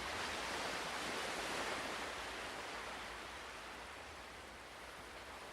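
Ocean surf: one wave washing in and drawing back, a soft rush that swells at the start and fades over a few seconds, with the next one starting to build near the end.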